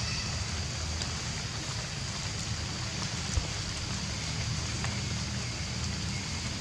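Steady rain hiss with wind rumbling on the microphone. A single sharp knock sounds about three and a half seconds in.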